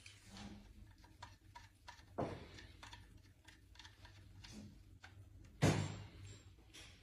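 Scattered light metallic clicks and ticks of hand tools and parts being handled during engine work, with two sharper knocks, one about two seconds in and a louder one near the end.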